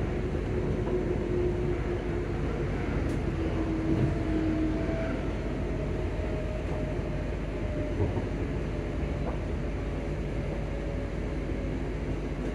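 Inside a ScotRail Class 334 electric multiple unit running along the line: a steady rumble of wheels on the track, with a faint whine that drifts slowly down in pitch and a few light knocks.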